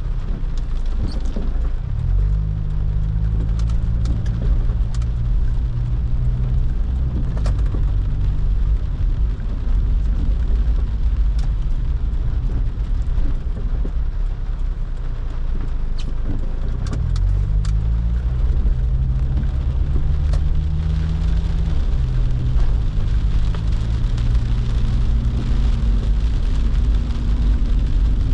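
Car driving in the rain: a low engine hum over road noise, the engine note climbing as it speeds up about two seconds in and again around seventeen seconds, with scattered sharp ticks.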